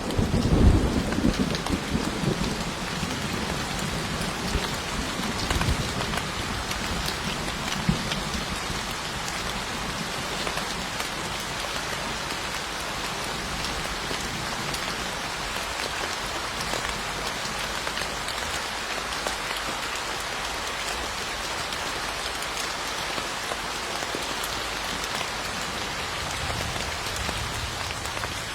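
Steady rain falling, with a low roll of thunder in the first couple of seconds that rumbles again more faintly a few seconds later and then fades, leaving only the rain.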